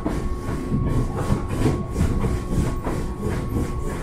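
Passenger train running along the track, heard from inside a carriage: a low rumble with a thin steady tone, and irregular clacks and rattles from the wheels, a few a second.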